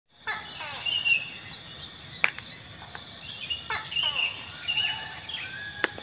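Birds calling, including the one known locally as the tuwuw, in runs of falling, slurred notes mixed with short higher chirps, over a steady high drone of insects. Two sharp clicks come about two seconds in and near the end.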